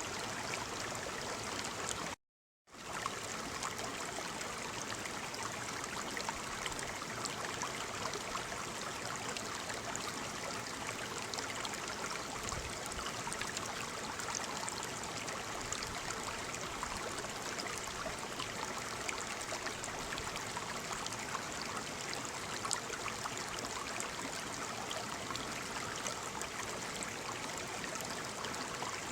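Waterfall: a steady, dense rush of falling water. About two seconds in, the sound cuts out completely for about half a second, then resumes.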